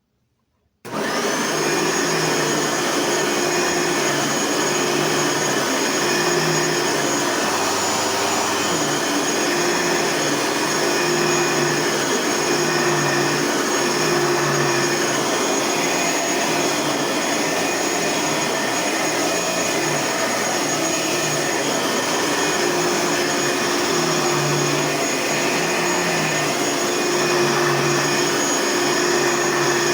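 Bissell vacuum cleaner switched on about a second in. Its motor spins up quickly and then runs steadily with a high whine.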